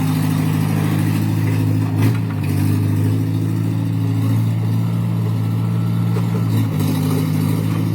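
JCB excavator's diesel engine running steadily, with a couple of short knocks, the first about two seconds in.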